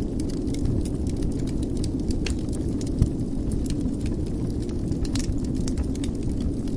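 Wood fire burning in a fireplace: a steady low rumble with scattered crackles and pops, one louder pop about three seconds in.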